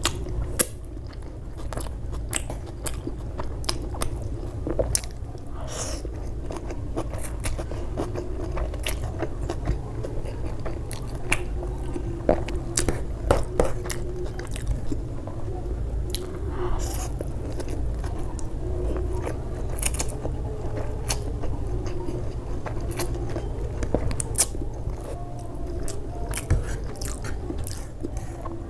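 Close-miked mouth sounds of a person eating: chewing and biting, with many short wet clicks and crunches scattered irregularly, over a steady low hum.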